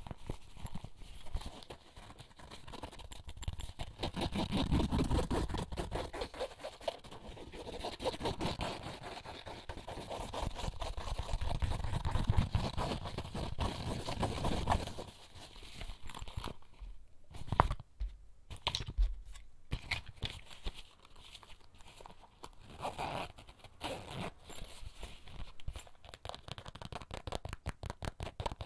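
Close-miked ASMR handling of small everyday items from a bag: rapid fingertip tapping and scratching mixed with crinkling and rustling. It thins out to a few separate taps about two-thirds of the way through, then picks up again.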